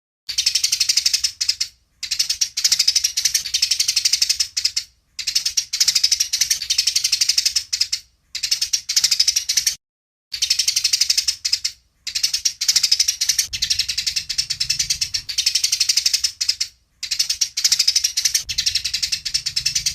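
Eurasian tree sparrows chattering in fast runs of high chirps, in seven bursts with short breaks between them: the excited chatter of sparrows fighting.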